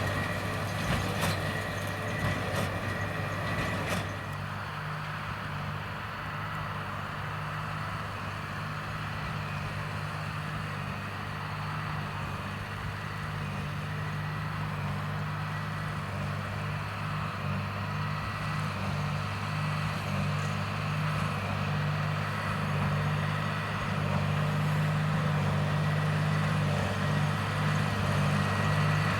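A John Deere 8330 diesel tractor runs steadily under load, pulling a Krone BigPack square baler that is baling wheat straw. There are a few sharp knocks in the first four seconds, and the machinery grows gradually louder toward the end.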